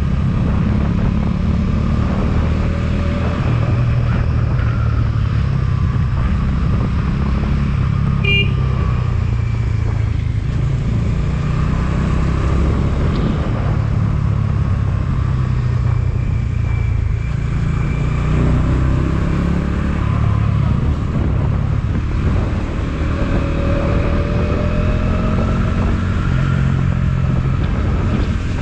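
Motorcycle engine running while being ridden: a steady low drone whose pitch drifts gently up and down.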